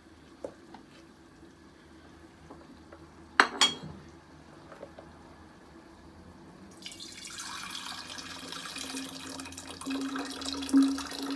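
Two sharp clinks, then freshly blended lemon-ginger juice being poured out of the Thermomix bowl through a strainer into a container, a steady pouring splash with a filling tone that grows stronger near the end.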